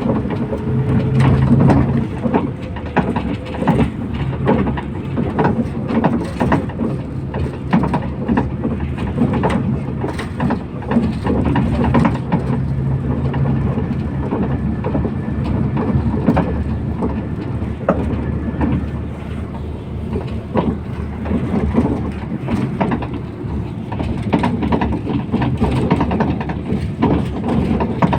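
MAZ 241.030 bus in motion, heard from inside the cabin: a steady low engine hum and road noise, with frequent rattles and knocks from the bus body.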